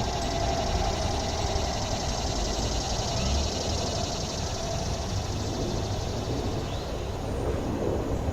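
Steady low rumble of distant city traffic with a held hum that fades away over the first few seconds. Near the end, a couple of short bird chirps.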